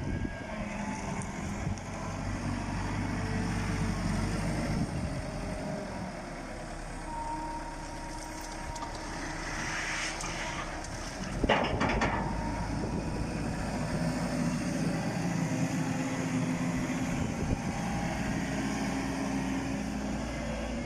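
A vehicle engine running steadily, with one sudden loud knock about halfway through.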